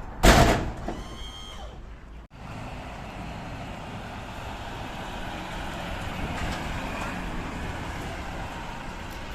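Street traffic noise: road vehicles running past in a steady haze of road sound. A sharp, loud knock just after the start is the loudest moment.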